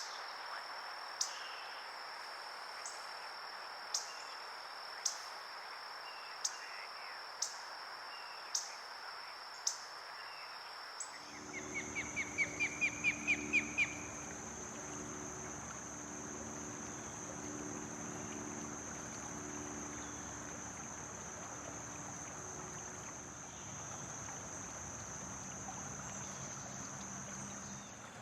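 Outdoor ambience with a steady high-pitched insect drone throughout, sharp ticks about once a second for the first ten seconds, and a short, quickening bird trill that grows louder just before halfway. A faint low hum joins the drone after that.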